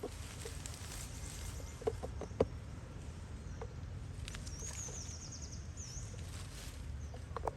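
Outdoor ambience with a steady low rumble, a few soft taps or clicks, and a short, high, rapidly pulsing chirp about halfway through.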